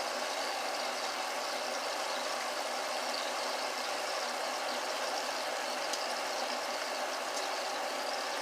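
Ribs frying in oil on the stove, a steady hiss of sizzling with a few faint crackles.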